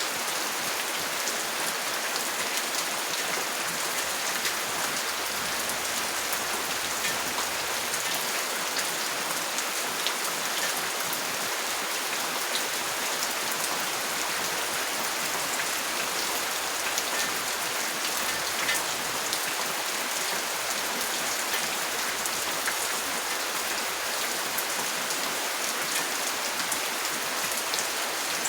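Steady rain: an even hiss with many small drop ticks running through it.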